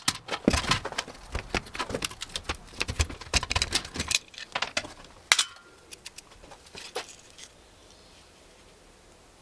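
Rapid clicks, clinks and knocks of small metal and plastic computer parts being handled and pried apart during a desktop computer teardown, thinning out about four seconds in and dying away a few seconds later.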